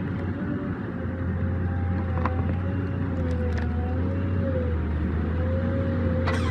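A heavy machine's engine running steadily under load, with a low hum and a higher whine that wavers slowly up and down. A few faint clicks are heard, and a short, harsh burst of noise comes near the end.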